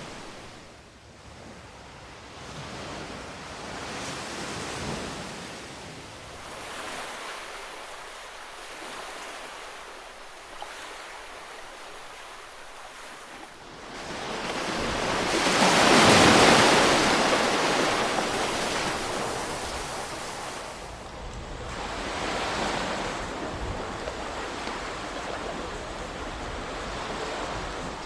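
Ocean waves washing onto a shore, a hissing surf that swells and recedes several times. The biggest wave comes about halfway through.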